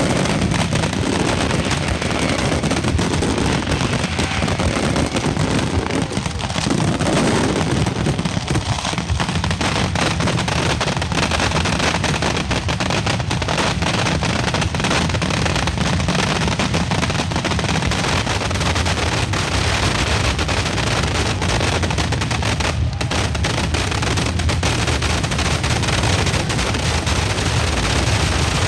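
Mascletà firecrackers going off in a dense, unbroken rapid string, the bangs too close together to count, at a steady high loudness throughout.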